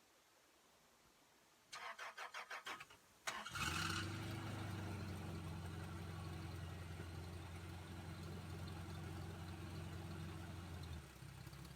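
Toyota 22RE four-cylinder fuel-injected engine cranked by the starter for about a second, catching, briefly revving, then settling into a steady idle that eases off a little near the end. The owner says the engine has an exhaust leak and a sticking lifter.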